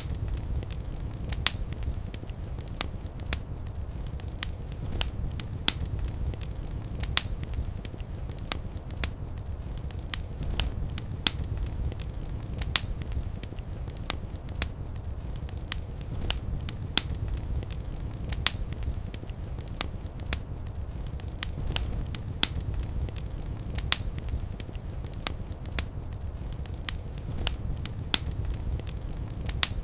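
Fireplace fire crackling: sharp, irregular pops, about one or two a second, over a steady low rumble of the flames.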